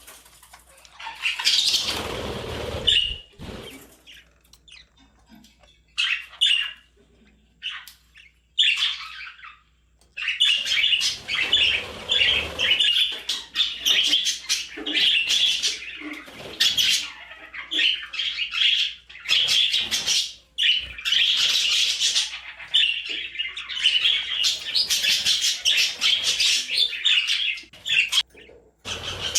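Budgerigar chirping and chattering: scattered short chirps at first, then near-continuous warbling chatter from about a third of the way through. A loud rustling burst about two seconds in.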